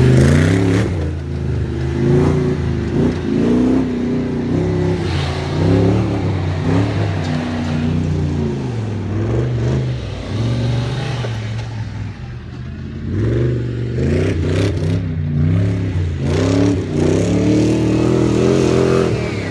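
Mercedes-Benz G-Class V8 engine revving up and down repeatedly, its pitch rising and falling again and again. It eases off briefly about twelve seconds in, then picks up again.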